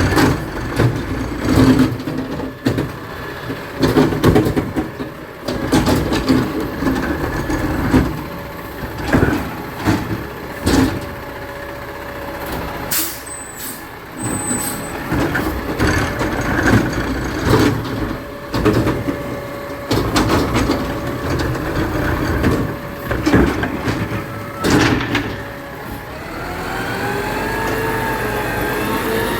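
Garbage truck at work: its engine running under repeated loud clanks and bangs. Near the end the pitch rises and wavers as the engine or hydraulics rev up.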